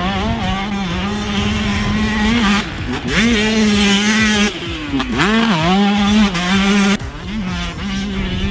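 Dirt bike engine running hard at high revs, its pitch dropping and climbing again several times as the throttle is chopped and reopened.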